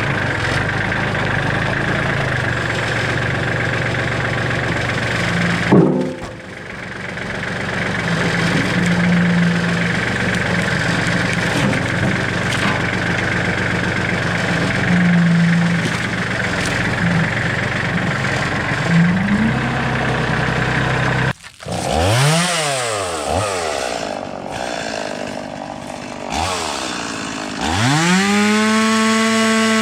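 A small gas engine running steadily, with a few brief rises in pitch. After a sudden break about two-thirds through, a chainsaw revs up and down several times, then climbs to a high, steady full-throttle pitch near the end.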